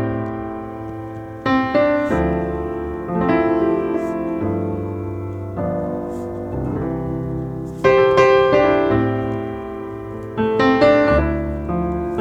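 Solo piano playing a slow, quiet piece. Chords and melody notes are struck and left to ring and die away, with stronger new phrases beginning about a second and a half in, near eight seconds, and near ten and a half seconds.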